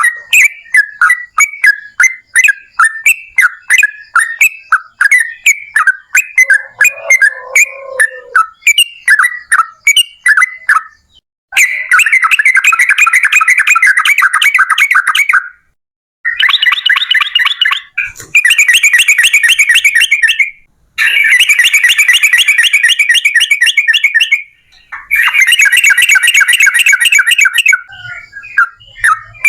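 Yellow-vented bulbul (trucukan) singing: first a quick series of short sharp chirps, several a second, then from about twelve seconds in a run of long, fast rattling trills a few seconds each with short breaks between them. This is the long rapid-fire 'ropel panjang' song used to provoke other trucukan into singing.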